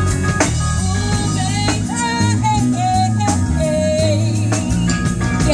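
Band music in an instrumental passage: drum kit and bass keep a steady beat under a wavering lead melody with no sung words.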